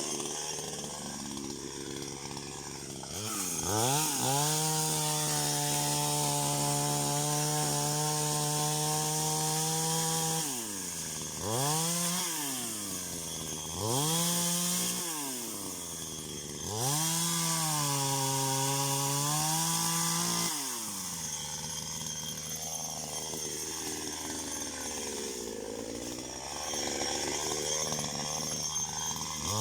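Petrol chainsaw revving in bursts: it climbs to full speed and holds for several seconds, then drops back to idle, twice at length and with short blips between. The pitch wavers while it is held, as the saw cuts into wood.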